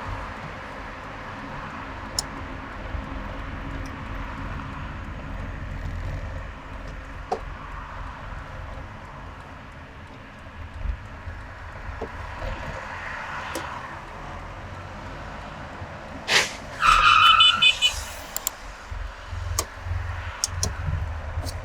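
Steady road and engine rumble of a car driving in highway traffic, with a few sharp clicks. About three-quarters of the way through comes a sharp loud sound, then a loud high-pitched tone lasting about a second.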